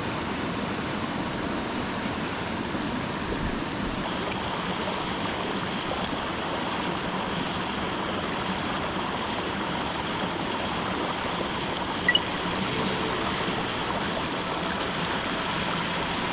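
Mountain stream water running steadily, with one brief small click about twelve seconds in.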